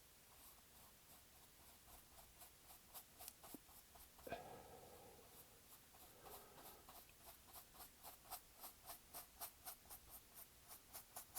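Faint, rhythmic strokes of a paintbrush on canvas, about three a second, as acrylic paint is worked on in short strokes.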